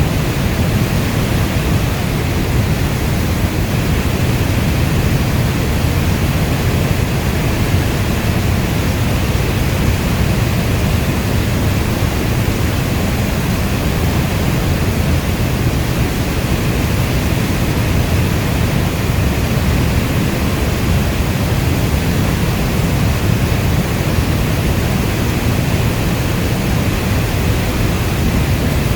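Steady heavy rain falling, a constant even rush weighted toward the low end, with no thunder or separate drops standing out.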